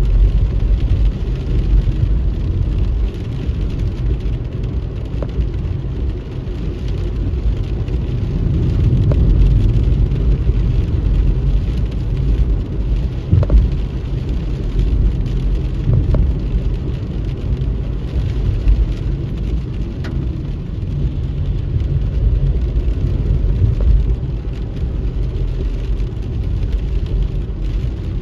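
Car driving in the rain: a steady low rumble of engine and tyres on the wet road, with rain on the car and a few short sharp ticks.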